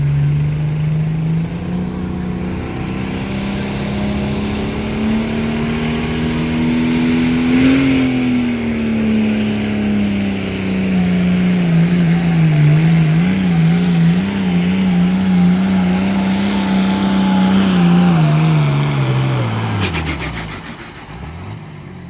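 Pulling tractor's engine under full load on a tractor pull hook: it climbs in pitch for several seconds, holds and wavers at high revs, then drops off and winds down near the end as the pull finishes. A high whine rises with the engine and falls away as it winds down.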